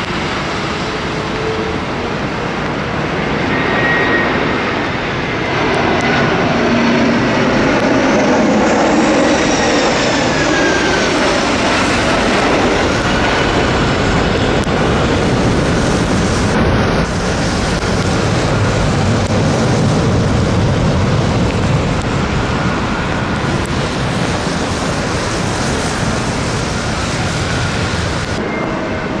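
Jet airliner on landing approach, its engines running with a steady rush and whine. The whine falls in pitch about a third of the way in as the aircraft passes.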